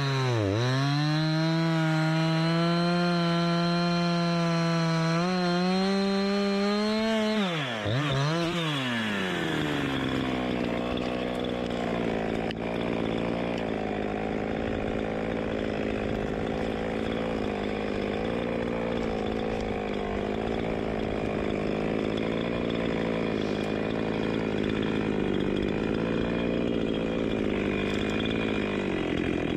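Two-stroke chainsaw running at high throttle, its pitch dipping briefly just after the start. About eight seconds in the engine speed drops sharply, and it then runs at a lower, steadier speed with a rougher, noisier sound for the rest.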